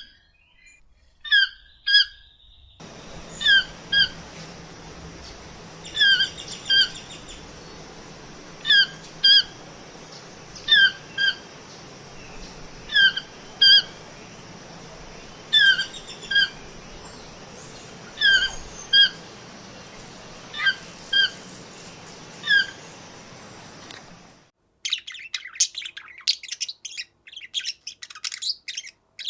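Bird calls: one bird repeats a short two-note call, each note sliding down, about every two seconds over a steady hiss. Near the end this gives way to a dense run of rapid, high chirps.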